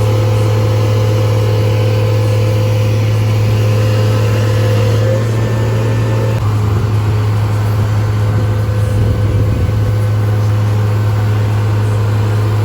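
Semi-truck's diesel engine droning steadily while cruising, heard from inside the cab, with a low hum and a higher held note that changes pitch slightly and fades out about halfway through.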